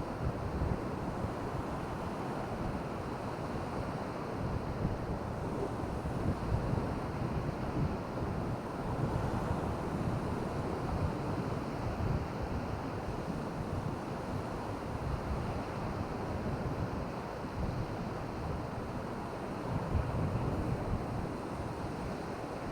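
Wind buffeting the microphone over the steady wash of surf at the shore, with small gusts throughout.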